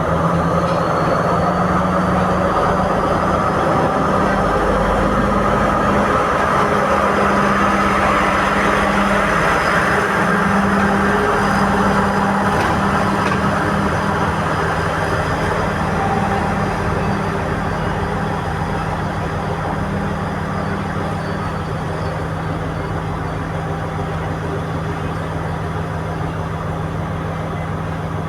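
Diesel engine of an old Class S12 diesel-electric power coach running steadily, a loud even drone that eases a little about halfway through.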